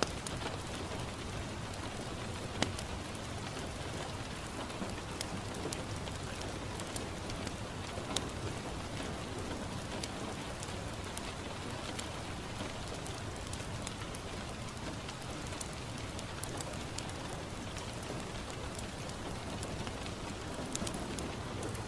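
Steady rain pattering on a window, an even hiss, with scattered sharp clicks and pops, a couple of them standing out about two and a half and eight seconds in.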